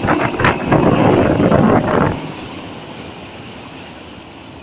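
Rushing wind and surf noise on the microphone, loud for about two seconds, then dropping to a quieter steady hiss.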